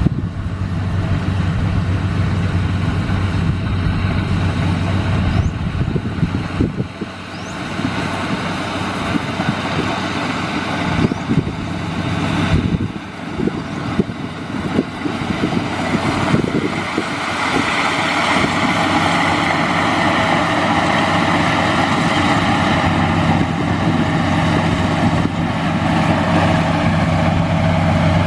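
Crown Sumo combine harvester running: a steady low engine hum under a dense rushing machinery noise, dipping briefly twice in the first half.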